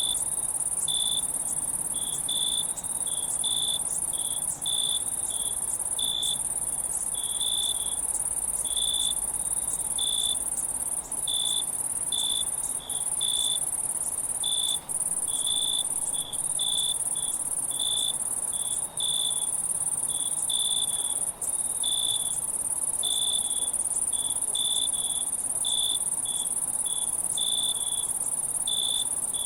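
Insect chorus: a steady, high-pitched shrill with short lower chirps repeating irregularly, about two a second. The sound dips out for an instant several times.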